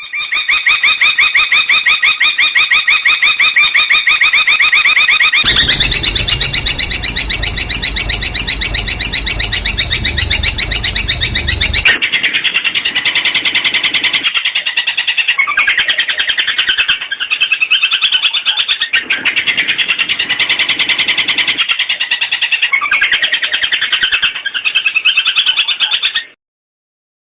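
Long-tailed shrike (cendet) song: rapid strings of fast, repeated high chattering notes that switch abruptly between phrases. A harsher, noisier burst runs from about five to twelve seconds in, and the song cuts off just before the end.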